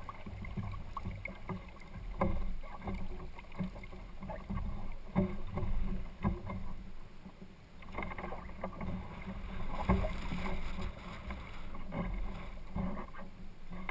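Water slapping and gurgling against the hull of a sailing kayak under way, with irregular small knocks and a low rumble.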